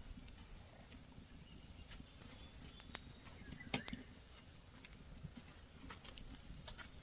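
Wood fire in a small camp stove crackling: irregular light pops and snaps over a steady low rumble.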